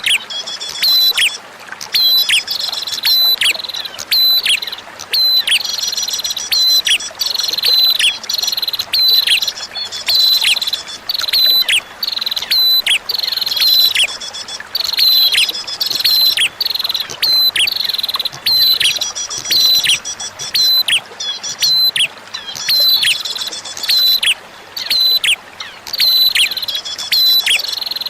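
Prinia (prenjak) song: a fast, unbroken run of short, sharp calls, each dropping quickly in pitch, about one to two a second, with thin high twittering between them.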